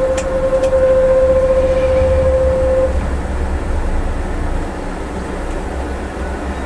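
Scania diesel engine droning steadily from inside the cab while holding the vehicle back on engine braking down a mountain grade. A steady, clear tone sounds over it and stops suddenly about three seconds in.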